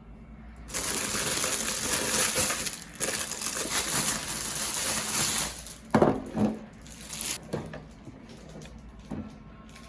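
Kitchen cleaning noise: a steady rushing sound lasting about five seconds, then a few light knocks and clatters.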